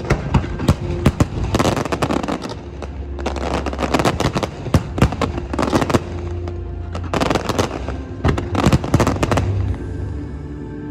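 Aerial fireworks bursting and crackling in dense clusters of sharp bangs, each cluster lasting about a second with short gaps between, over music playing underneath.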